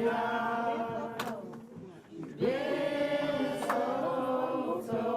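A congregation of voices singing a praise song together without instruments, in long held notes, with a short break for breath about two seconds in before the next phrase.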